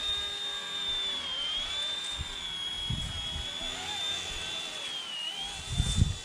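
Mini RC helicopter's small electric motor and rotor whining steadily at a high pitch in flight, the pitch dipping slightly a few times. A couple of low thuds, the loudest near the end.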